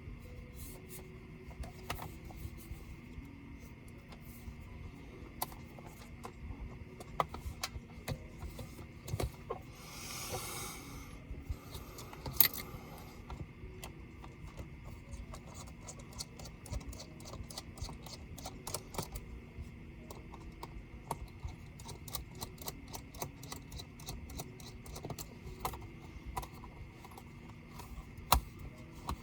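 Small clicks and taps of tools and plastic and metal laptop parts being handled during disassembly, with a brief hiss about ten seconds in and two sharper clicks.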